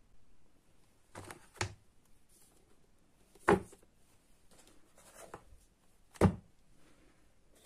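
A few sharp knocks of hard objects being handled and set down in a small room: a light pair early, then two louder single knocks a few seconds apart.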